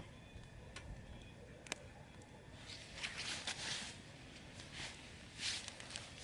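A couple of light clicks, then rustling and handling noises coming in several bursts from about halfway through.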